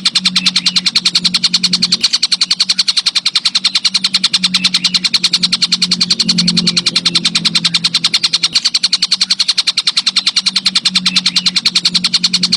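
Insect stridulation from an orthopteran, the kind of call used in songbird tutor tracks. It is a fast, even pulsing, high-pitched and unbroken, over a steady low hum.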